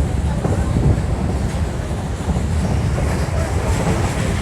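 Old electric multiple unit (EMU) local train running, heard from inside the coach: a steady, deep rumble of the carriage and wheels on the rails.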